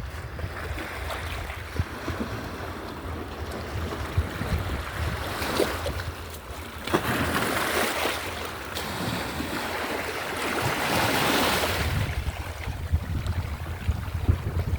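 Sea waves washing in, swelling twice to a louder rush, with wind rumbling on the microphone underneath.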